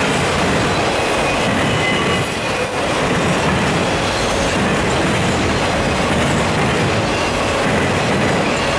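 Freight train of autorack cars rolling past close by: steady rolling noise of steel wheels on rail, with brief faint high wheel squeals about two seconds in.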